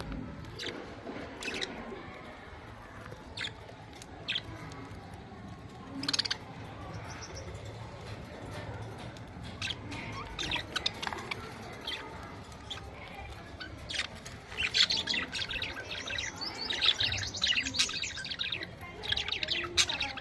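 Budgerigars chirping, with scattered short calls at first, then a stretch of dense, rapid warbling chatter about three-quarters of the way through.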